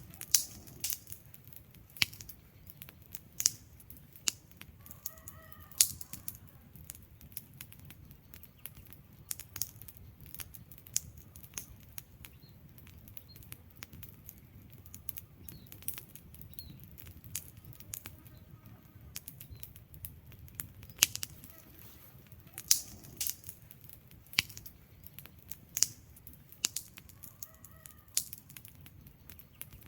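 Wood fire crackling in a fireplace: irregular sharp pops and snaps from the burning logs, some much louder than others, over a low steady rumble of the flames.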